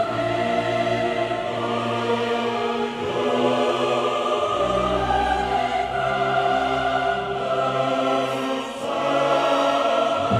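Choral music: a choir singing sustained chords that change every second or two over deep bass notes.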